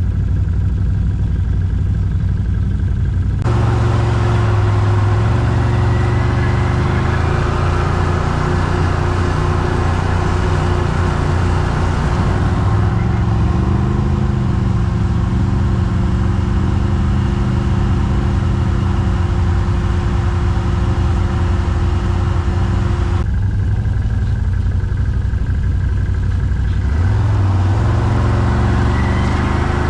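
ATV (quad bike) engine running while riding off-road, its revs rising and falling. A broad rushing hiss joins a few seconds in and drops away again about three-quarters of the way through.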